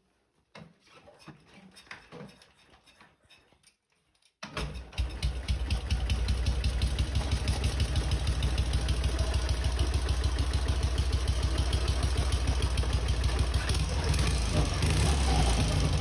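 Ural motorcycle's flat-twin engine started about four seconds in, catching at once and settling into a steady idle. Before that there are only faint handling noises.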